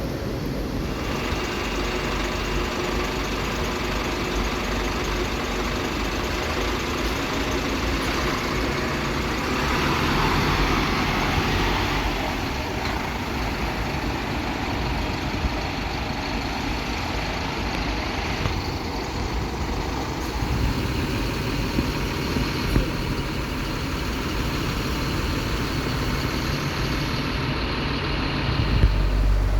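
Scania K360IB bus on the move, heard from on board: steady engine and road noise. It swells briefly partway through and turns to a deeper, louder low rumble near the end.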